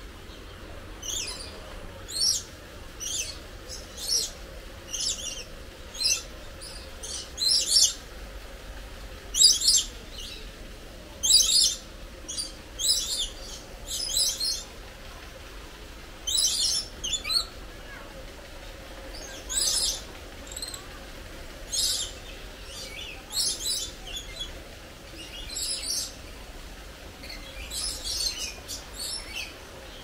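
A bird giving short, high-pitched chirping calls, repeated roughly once every second or two, sometimes two or three in quick succession, over a faint steady low rumble.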